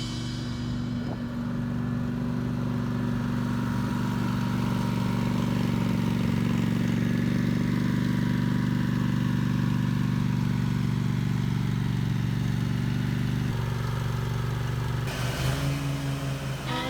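Small single-cylinder-style engine of a Ranch King lawn tractor running steadily, its hum shifting about three-quarters of the way through, with music coming in near the end.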